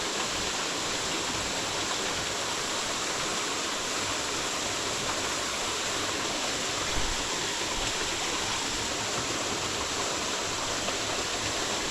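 Steady rush of water flowing in a mountain trout stream.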